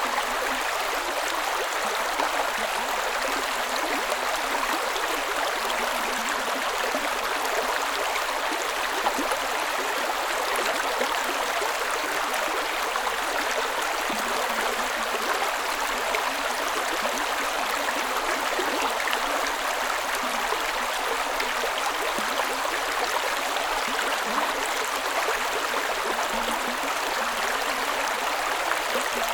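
Creek water running steadily over rocks, a continuous burbling rush with no break.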